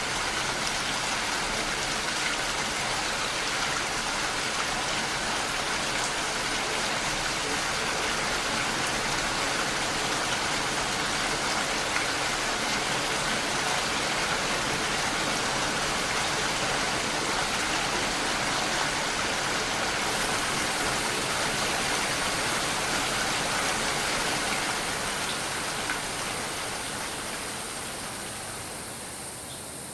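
Steady, dense rainfall, an even hiss of many drops with no thunder, fading down over the last few seconds.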